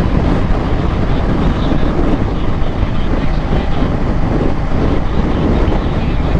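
Kawasaki H2's supercharged inline-four running as the bike is ridden at speed, under a steady rush of wind on the rider's microphone. The noise holds level throughout, with no clear rise or fall in engine pitch.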